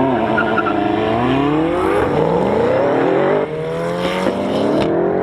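A race car accelerating hard through the gears: engine pitch climbs steadily in each gear, then drops at three quick upshifts.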